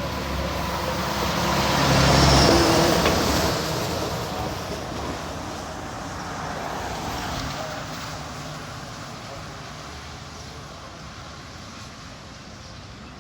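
A road vehicle drives past close by, its engine and tyres loudest about two seconds in, then fading away.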